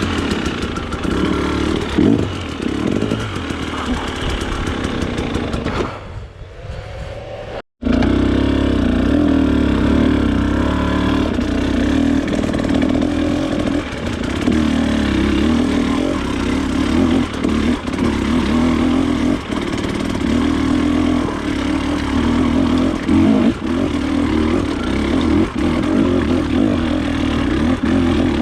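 Off-road motorcycle engine running with the revs rising and falling, with scattered clattering knocks. About six seconds in it goes quieter, then the sound breaks off for an instant before coming back at full level.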